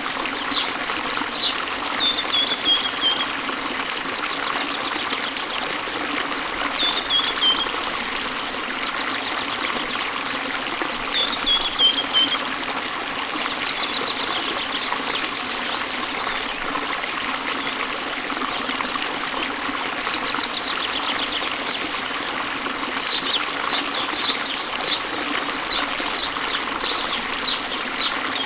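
Waterfall water running steadily. A bird sings short falling chirps a few times, then a quicker run of chirps near the end.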